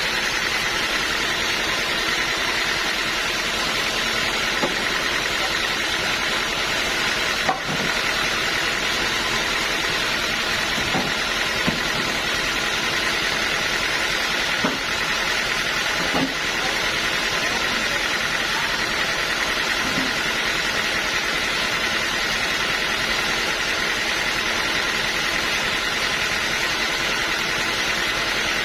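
Sawmill machinery running steadily, with a few brief knocks.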